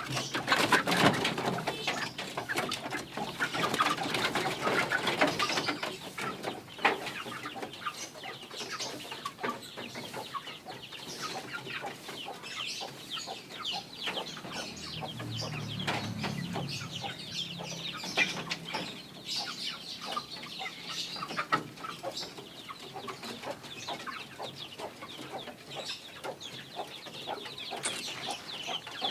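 A flock of kampung chickens clucking in a coop, mixed with many short clicks and knocks; busiest and loudest in the first few seconds.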